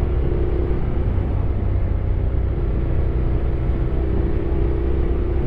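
Honda X-ADV 750's parallel-twin engine running at a steady cruise while riding: a constant low drone with a faint steady hum above it and no change in pitch.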